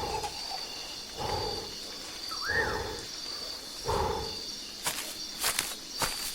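Jungle soundscape: a repeated low animal call about every second and a half over a steady, pulsing high insect chirp, with one rising-and-falling call about halfway through. Sharp clicks and snaps start near the end.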